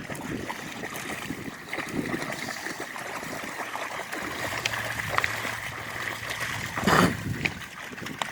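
River water running and trickling, with scattered small ticks and one louder rush of noise about seven seconds in.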